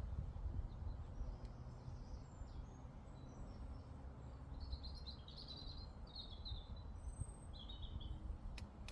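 Outdoor meadow ambience: a steady low rumble under a small bird's rapid chirping song, which runs from about halfway through to near the end. A few sharp clicks come just before the end.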